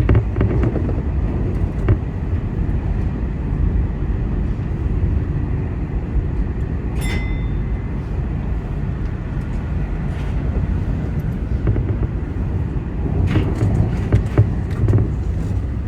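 Keio Inokashira Line electric commuter train running on its rails, heard from inside the front car: a steady low rumble. About seven seconds in there is a brief high tone, and near the end a few sharp clicks.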